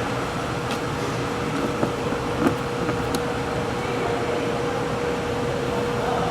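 Steady machine hum with a constant mid-pitched tone running under it, and a couple of faint clicks about two and a half seconds in.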